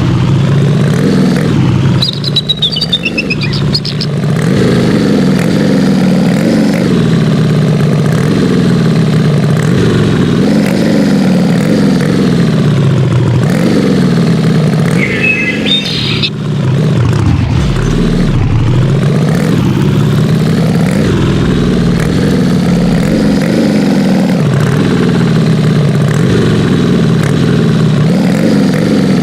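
Big 4x4 truck engine running hard, its revs rising and falling over and over. Two short high squeals, near the start and about halfway through.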